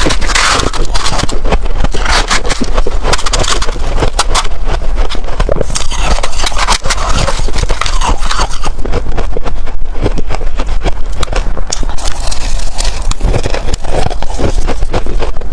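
Close-miked crunching and scraping of freezer frost as it is eaten: a dense, loud run of crackling crunches with a low rumble underneath.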